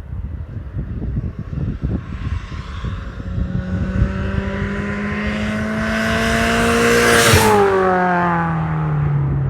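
Supercharged Mazda MX-5 with a Cobra exhaust driving past: the engine and exhaust note grows louder and climbs slightly in pitch as it approaches, is loudest about seven seconds in, then drops in pitch as the car moves away.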